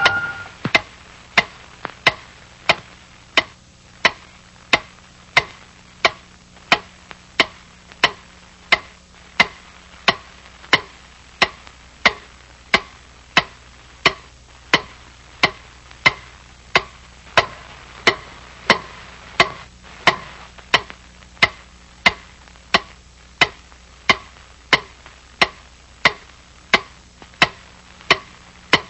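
Sharp, evenly spaced knocks, about three every two seconds, with a faint low hum under them.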